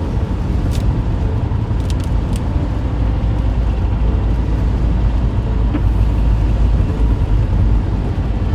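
Steady low rumble of a car driving, heard from inside the cabin, with a few faint clicks in the first few seconds.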